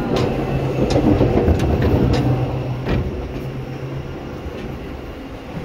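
Seibu 2000 series electric train running, heard from inside the car: a loud steady low hum from the drive with sharp clicks of the wheels over rail joints. The hum stops about four seconds in and the running sound becomes quieter.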